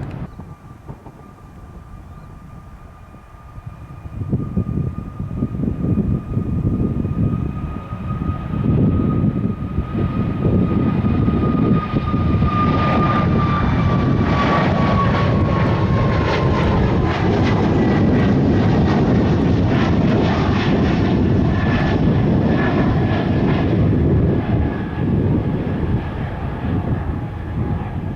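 Boeing 737 MAX 8's CFM LEAP-1B turbofans at takeoff thrust passing by. A steady fan whine drops in pitch as the jet goes past, over a loud rumble that builds after a few seconds and has a crackle in it for about ten seconds mid-way, then eases off near the end.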